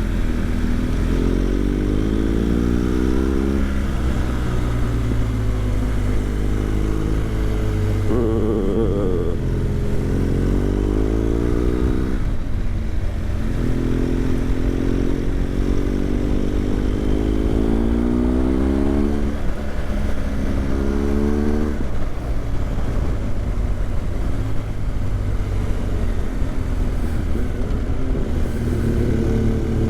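BMW GS motorcycle engine under way, revving up several times and dropping back as it accelerates through the gears, over a steady low rumble of riding.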